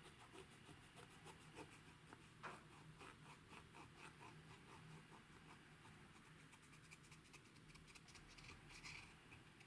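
Faint, irregular small clicks and crackles of hands working slime and makeup, one click louder about two and a half seconds in, over a low steady hum.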